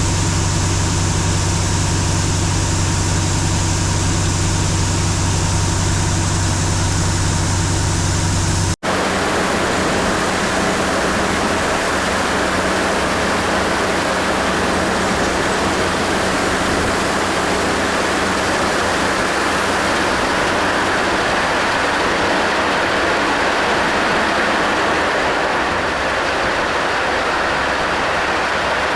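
A heavy engine running steadily with a deep hum. After an abrupt cut about a third of the way in, a steady rushing noise from running farm machinery takes over.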